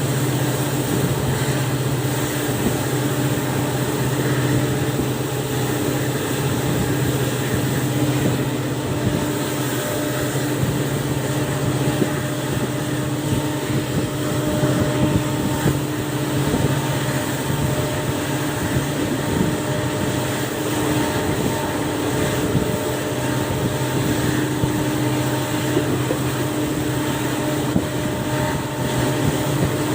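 WDP4B diesel locomotive's EMD 710 two-stroke engine running with a steady low drone and a constant hum, holding an even note.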